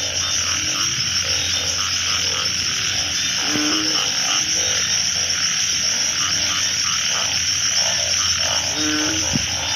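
A dense chorus of frogs calling at once: many short repeated croaks over a steady high-pitched shrill drone. This is a breeding chorus after fresh rain.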